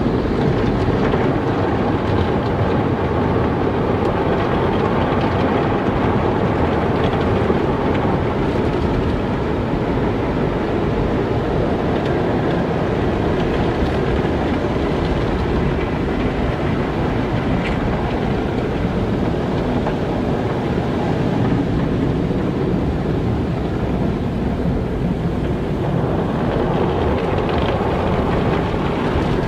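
Car wash running, a steady, even rumbling noise.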